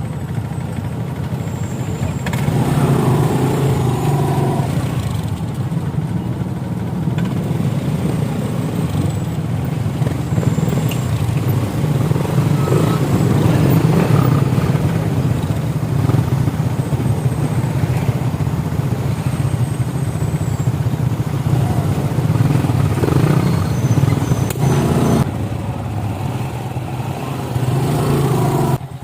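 Motorcycle running on the road: a steady engine hum under a continuous rush of noise, dipping for a few seconds near the end.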